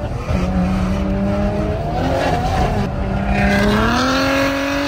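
Car engine pulling at high revs, its note holding fairly level and then climbing about three seconds in as the car accelerates.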